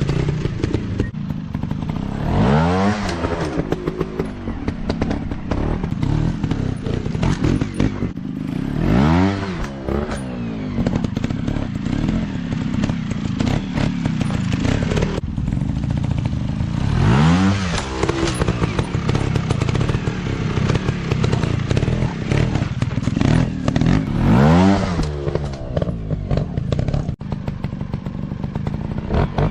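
Off-road motorcycle engine running steadily, revved up and back down four times, several seconds apart.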